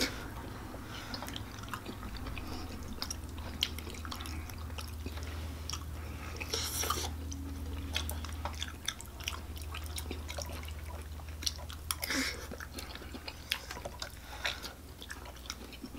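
People eating spaghetti squash: close, wet chewing and mouth sounds, with many small clicks of forks against the squash shells.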